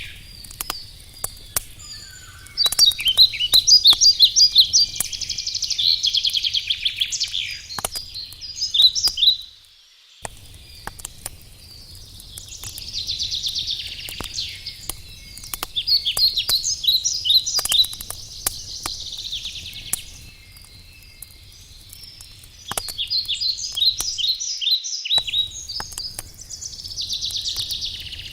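Forest birds singing in repeated trilling, chirping phrases a few seconds long. Beneath them a wood campfire crackles with scattered sharp pops.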